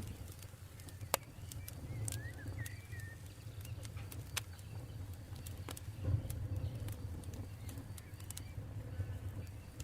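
Campfire crackling: sharp pops and snaps of burning wood over a low, steady rumble, with one loud pop about a second in. A few short bird chirps come between about one and a half and three seconds in.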